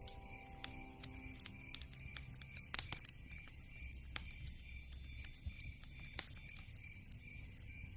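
Campfire crackling with frequent small pops and a couple of louder snaps about three and six seconds in. Behind it runs a steady chirping of night insects, about three chirps a second.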